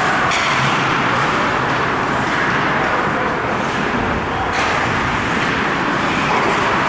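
Ice hockey game in play: a steady rush of skate blades on ice and rink noise, with sharper scrapes just after the start and again about four and a half seconds in.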